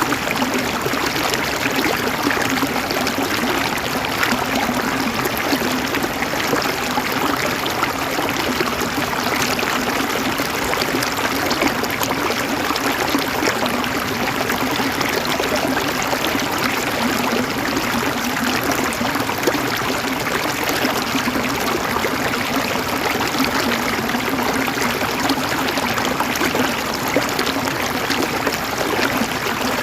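River water flowing over stones with a steady, continuous rush and gurgle.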